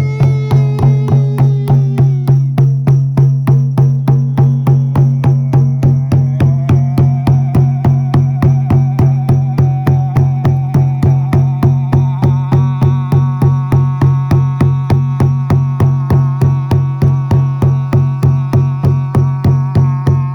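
Shamanic frame drum beaten in a steady, fast, even rhythm, roughly four strokes a second, under sustained droning tones that slowly shift in pitch.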